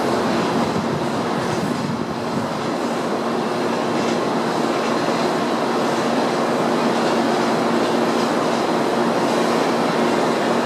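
Tokaido Shinkansen train pulling out of the station on the adjacent track: a steady running noise with a faint low steady hum, holding at an even level throughout.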